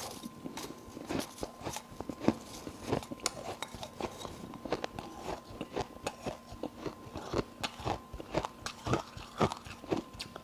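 A person biting and chewing ice close to the microphone: a dense, irregular run of sharp crunches, about two or three a second.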